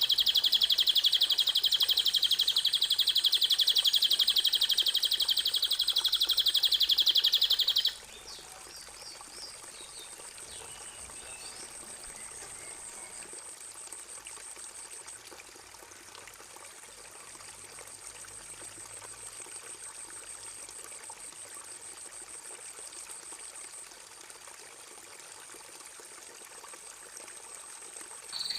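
Songbird recording: a loud, very fast, buzzy trill that stops abruptly about eight seconds in. After it come a few faint chirps over a steady high hiss.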